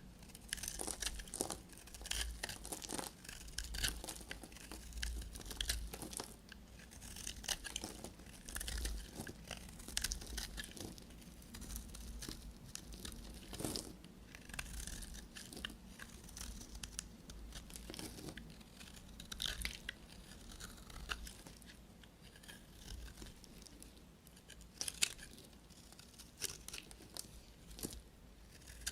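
Knife cutting through dry bar soap, a dense, irregular crisp crackling and crunching.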